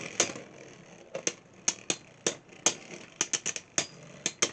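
Beyblade tops and launcher being handled between battles: a run of sharp, irregular clicks and clacks.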